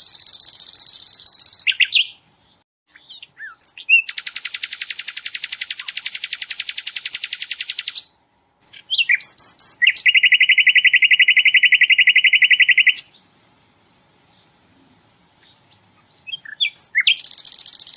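Sikatan londo singing long, very fast rapid-fire trills, each lasting a few seconds and pitched differently: a high trill, then a wider lower one, then a lower buzzing trill. Short chirps and brief pauses fall between them, and another high trill starts near the end.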